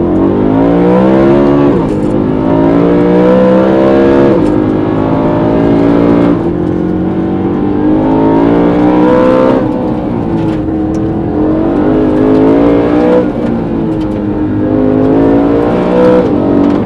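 The naturally aspirated S65 V8 of a BMW E92 M3 is heard from inside the cabin with its exhaust valves closed, so its unfiltered intake noise comes through. It revs hard under throttle, its pitch climbing again and again and dropping sharply about five times as the car pulls through the gears.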